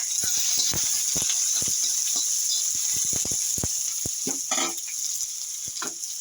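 Food sizzling steadily in hot oil in a pan, with a cooking utensil clicking and scraping against the pan many times.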